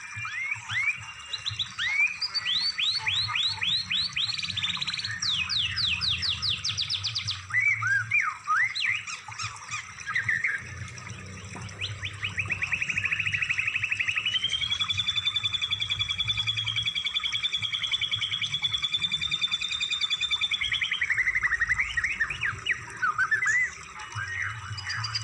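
Recorded songbird song used for masteran training, mixing several birds' phrases: rapid series of sweeping notes and looping whistles, then a long, fast, even trill lasting several seconds from about halfway, followed by more varied chirps. A low hum runs underneath.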